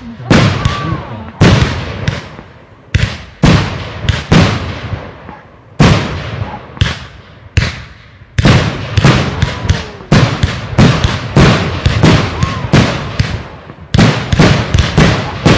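Fireworks display: aerial shells launching and bursting in quick succession, sharp bangs about twice a second, each with a short decaying tail. The bangs come closest together in the second half.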